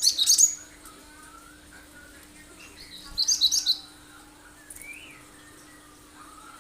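Cinereous tit (gelatik batu) calling in two quick bursts of sharp, very high, rapid notes: one at the start and another about three seconds in. Fainter, lower warbling runs between them.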